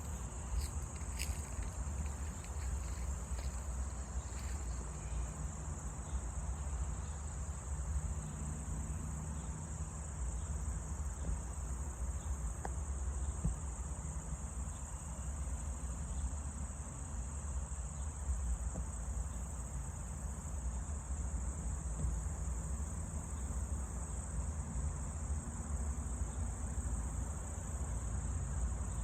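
Crickets trilling in a steady, unbroken high-pitched chorus, over a continuous low rumble.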